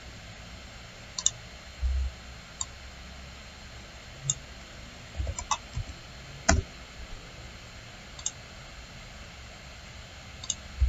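Computer mouse clicks, scattered singly one to two seconds apart over a faint steady hiss, with a few dull low thumps.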